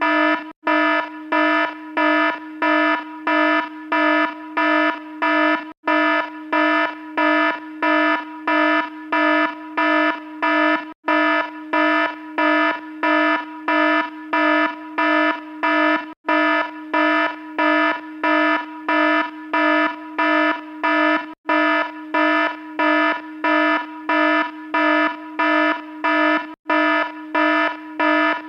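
Electronic alarm beeping over and over, a buzzy tone with many overtones, about three beeps every two seconds. A brief gap every five seconds or so marks the repeating loop.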